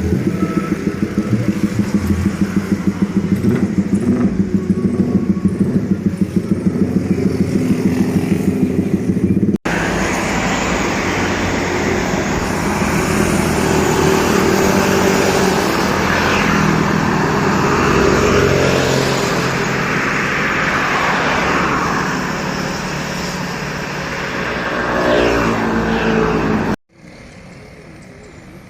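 Motor vehicle engines running close by, road traffic with motorbikes. First comes a steady engine drone that pulses several times a second, then a busier mix of passing traffic, and after two abrupt cuts the last couple of seconds are much quieter.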